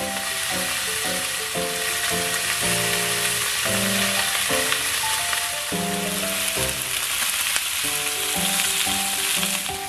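Pork-wrapped enoki mushroom rolls frying in a pan with a steady sizzle.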